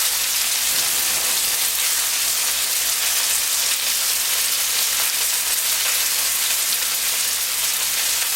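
Thin breadcrumb-coated chicken cutlets frying in a pan, a steady sizzle.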